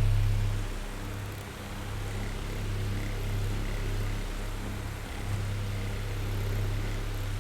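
Oscillating electric fan running: a steady whir of moving air over a low motor hum. The level dips about a second in, then holds steady.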